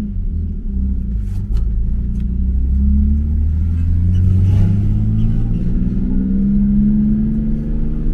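Lexus SC300's 2JZ inline-six through a muffler-deleted exhaust, with the resonators still in place, pulling under acceleration on the road. It is a low drone whose pitch rises gradually over the last few seconds, still pretty quiet.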